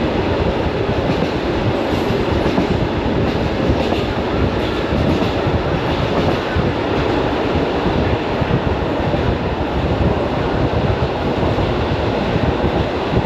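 Commuter electric train running at speed, heard from inside the carriage: a steady rumble of wheels on the rails with faint clicking from the track.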